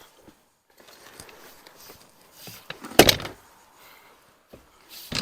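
Rustling of hands and soil being worked, with a loud, dull thump about three seconds in and another near the end.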